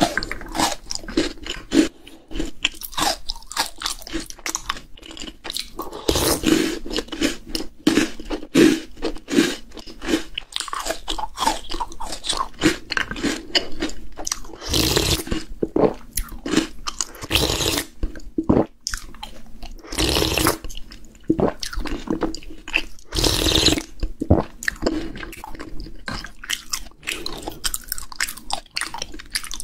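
Maltesers, malted-milk chocolate balls soaked in milk, being bitten and chewed: a quick, irregular run of crisp crunches, with a few longer, louder noisy bursts in the middle stretch.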